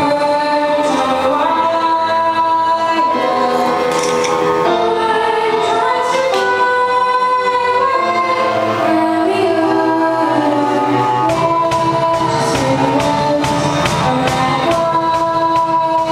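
A girl singing a song over backing music with sustained chords. About eleven seconds in, a beat with bass and percussion comes in.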